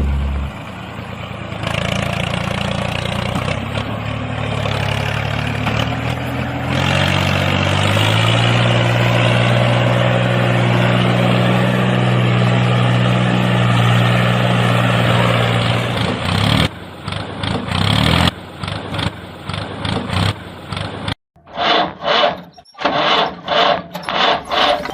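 A motor or engine running: its pitch climbs in steps over the first several seconds, then holds steady before breaking off into uneven pulses.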